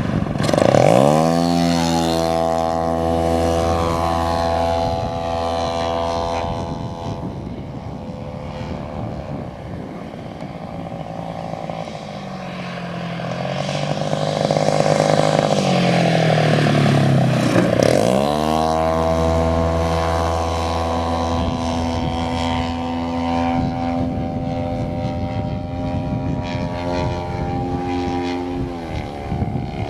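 Propeller engine of a 1/3-scale radio-controlled Cessna 182 model plane flying past, its pitch dropping sharply as it goes by about a second in and again about 18 seconds in. In between it fades and then rises as it comes back, running steadily.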